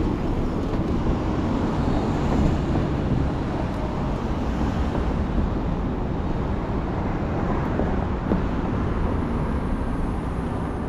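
Steady city street traffic heard from a bicycle riding in it: a dense, even low rumble with no distinct events.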